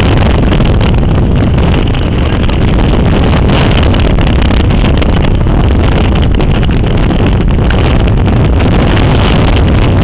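Rescue helicopter running close by, a loud, steady engine and rotor noise mixed with wind buffeting the microphone.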